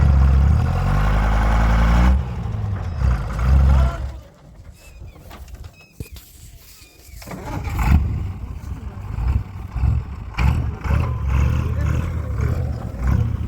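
Tractor engine revving hard under load while stuck in deep mud, easing off about four seconds in and picking up again a few seconds later.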